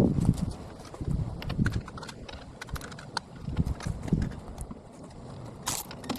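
Rapid, irregular knocks and clicks with low thuds, sped up: tools and metal parts being handled during the backhoe boom-cylinder repair.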